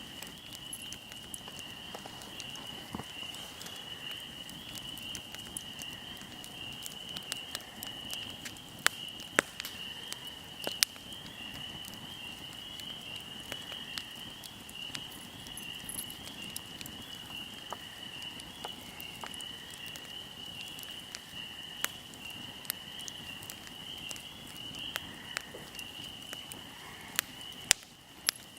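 Wood fire crackling, with irregular sharp pops, a few of them much louder. Under it runs a steady high-pitched chirring.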